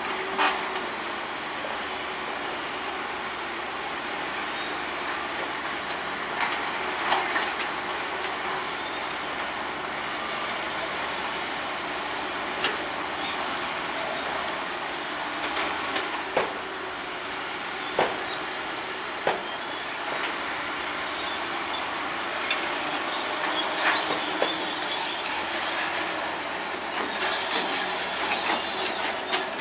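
Crawler bulldozer at work: its engine running with steel tracks clanking and squealing, and sharp metal knocks every few seconds.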